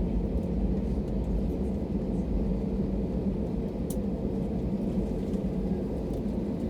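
Steady low rumble and hum inside the cabin of an Airbus A320 airliner rolling on the ground just after landing, with one faint click about 4 s in.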